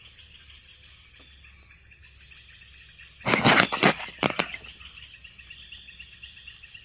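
Night insects in tropical forest chirping steadily in a high, pulsing chorus. About halfway through comes a short loud burst of rustling followed by a few sharp knocks.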